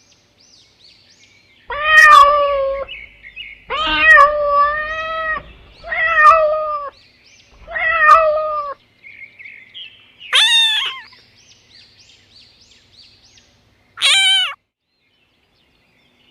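Peacock calling: four loud, wailing, meow-like calls about two seconds apart, then two shorter, sharper calls near the end, with faint small birds chirping behind.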